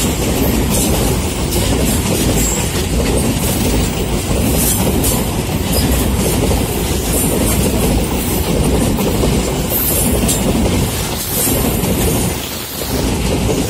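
Freight wagons of an empty coal train, loaded with empty containers, rolling past close by: a steady loud rumble with the wheels clattering over the rail joints.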